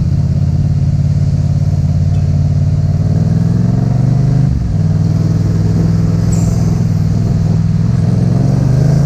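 Yamaha MT-07's parallel-twin engine under way. The pitch rises over the first four seconds, breaks briefly about halfway through as on a gear change, holds steady, then rises again near the end.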